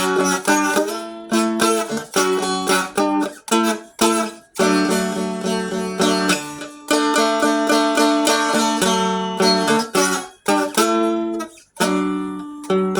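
Dulcimer strummed in a run of chords over held drone notes, each strum ringing out, with short breaks about four seconds in and near the end.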